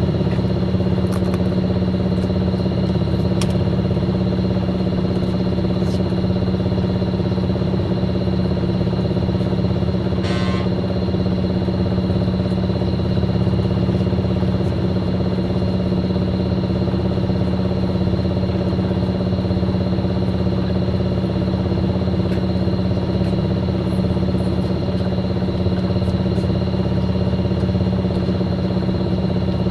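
Fisher & Paykel MW059 washing machine running steadily: a constant motor hum with a high steady whine over it, and a short high sound about ten seconds in.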